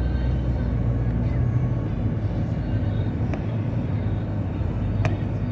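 Steady low drone of road and engine noise inside a car cruising on the highway, with two short clicks about three and five seconds in.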